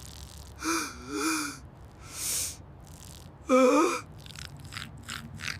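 A cartoon character's voice crying without words: a wavering whimper, a gasping breath in, a louder sob, then a quick run of short sniffles near the end.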